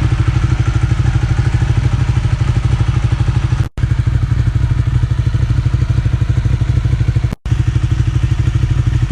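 2015 Ducati 899 Panigale's L-twin engine running steadily at idle with an even, rapid pulse, dropping out briefly twice, at about four and about seven seconds in.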